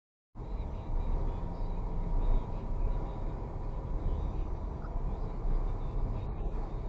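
Wind and engine noise of a vehicle being driven: a steady low rumble with a faint constant hum, cutting in suddenly out of dead silence about a third of a second in.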